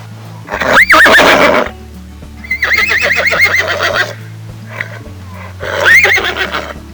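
Horse whinnying three times: a short squealing neigh about a second in, a long quavering whinny around the middle, and another short neigh near the end.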